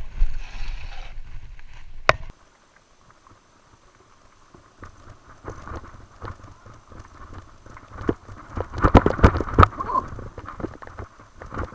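Mountain bike rolling over rough dirt trail: tyre crunch with clicks and rattles from the bike's chain and frame over bumps. It goes suddenly quiet about two seconds in, then the rattling builds up again and is thickest near the end.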